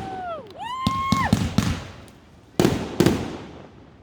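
Fireworks going off: two whistles in the first second or so, one gliding down in pitch and one rising then holding steady before cutting off, among sharp cracks, then two loud bangs close together about two and a half seconds in, each dying away.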